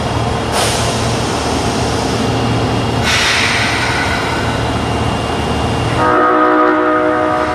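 Osaka Metro 22 series subway train at a station, with a steady low hum and two hissing bursts about half a second and three seconds in. About six seconds in it sounds its horn for about a second and a half, a chord of several tones. This unit's horn is known for its abnormal, off-sounding tone.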